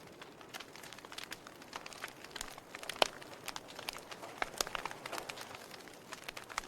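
Wood fire burning in a fireplace, crackling with irregular sharp pops over a soft steady hiss; the loudest pop comes about three seconds in.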